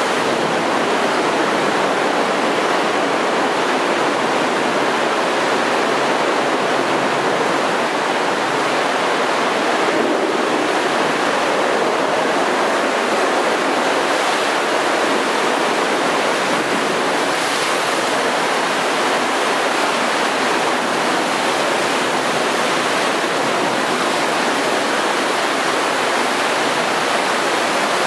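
Heavy storm surf whipped up by a typhoon, a loud, steady rush of churning seawater with no separate wave breaks standing out.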